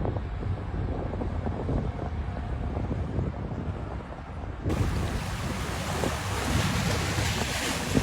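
New York City 7 subway train running, a steady low rumble of wheels on track. About halfway through, a loud hissing rush starts suddenly and carries on to the end.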